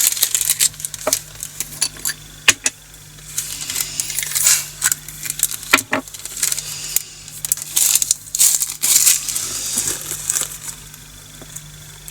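Small plastic bags of resin diamond-painting drills crinkling as tiny drills pour and rattle into a plastic storage container, with a few sharp clicks.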